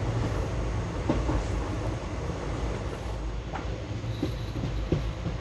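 Express train running along the track: a steady low rumble with a few clicks from wheels passing over rail joints.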